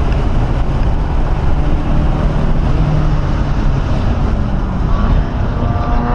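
1997 Ford Mustang SVT Cobra's 4.6-litre V8 pulling hard at track speed, heard from inside the cabin mixed with heavy wind and road noise. The engine note dips briefly about five seconds in and then climbs.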